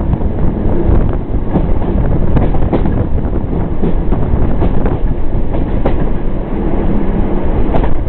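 Intercity passenger train running at speed, heard from inside a carriage: a loud, steady rumble of wheels on the track with scattered sharp clicks.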